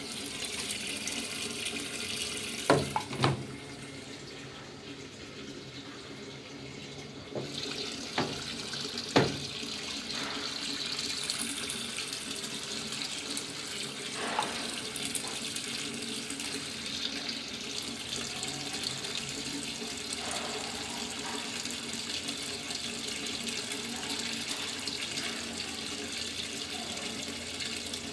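Top-loading washing machine filling with water: a steady rush of water pouring into the tub, with a few sharp knocks about three and nine seconds in.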